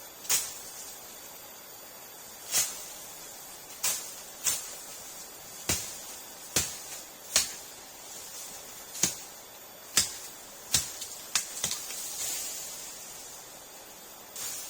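About a dozen sharp knocks at irregular intervals, some close together near the end, over a steady hiss.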